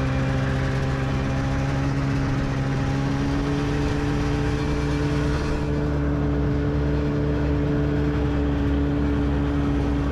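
Snowmobile engine running at a steady speed, its pitch holding constant.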